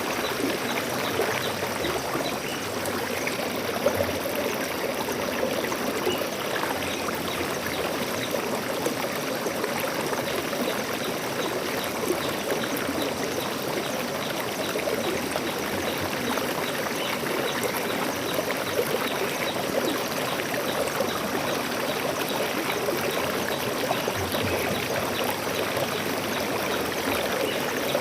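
Water flowing in a steady, even rush with fine splashing throughout.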